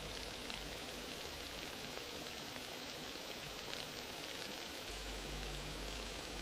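Wood fire crackling in a fireplace: a steady hiss with many small pops, over a low rumble of flame that comes and goes and swells about five seconds in.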